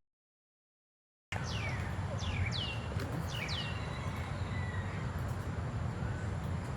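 Birds calling outdoors: a series of short, sharp whistles, each sweeping quickly downward in pitch, repeated every second or so over a steady low rumble. They begin after about a second of silence.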